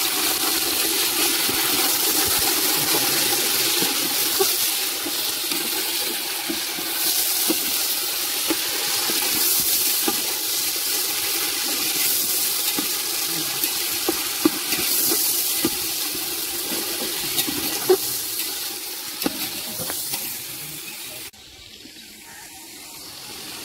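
Chicken pieces sizzling loudly as they sear in hot oil with fried onions in a large steel cooking pot, with occasional clicks and scrapes of a metal spatula stirring against the pot. The sizzle drops away suddenly near the end.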